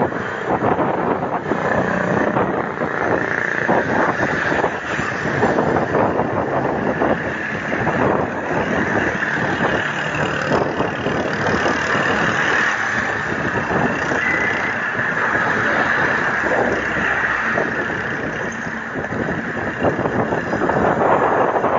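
Wind buffeting the microphone of a rider on a moving bicycle, mixed with the steady noise of road traffic.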